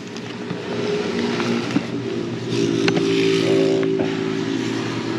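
A motor running steadily, with a couple of sharp clicks about three seconds in.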